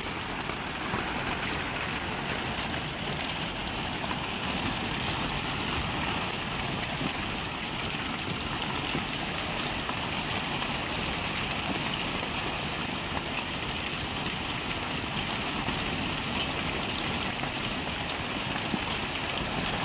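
Heavy hailstorm: a dense, steady clatter of hailstones pelting the ground and surfaces, made of countless small hits.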